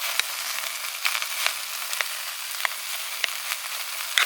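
Food frying in hot oil: a steady sizzle with frequent sharp little pops and crackles.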